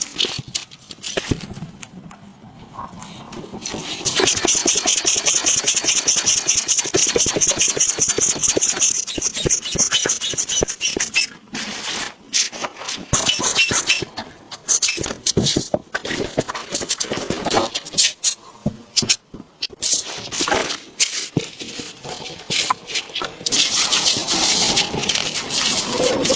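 Building-work noise: a fast, even rasping runs for about seven seconds, then gives way to irregular knocks and rattles, and the rasping starts again near the end.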